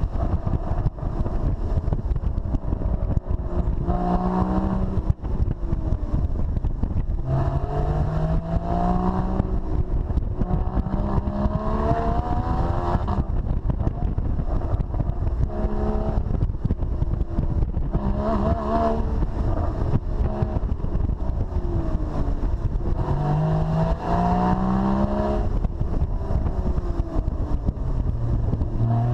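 Porsche Boxster GTS's 3.4-litre flat-six engine accelerating hard, again and again. Its note climbs through the revs and drops at each upshift, with brief easing-off between pulls.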